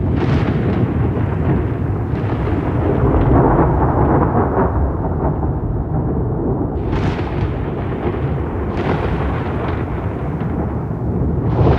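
Rolling thunder: a continuous low rumble that swells midway, with sharper cracks breaking in near the start, twice in the second half, and again at the end.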